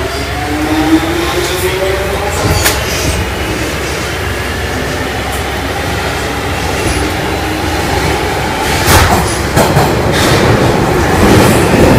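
London Underground 1996 Stock train running, its traction motors giving a whine that rises in pitch as it gathers speed over a steady rumble of wheels on rail. Sharp knocks from the track come once early and then several times together later, as the running gets louder.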